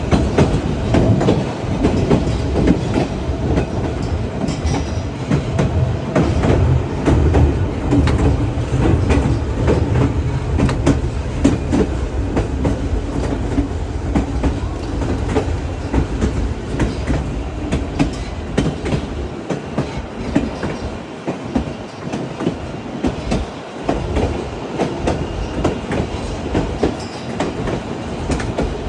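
Narrow-gauge White Pass & Yukon Route train running on the rails: a steady rumble with many clicks and clacks of the wheels over the track. The low rumble eases for a few seconds about two-thirds of the way through.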